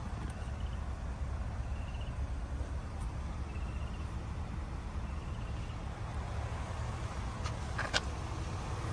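A 2004 Mercedes-Benz ML350's 3.7-litre V6 idling with a steady low hum. A sharp click comes near the end.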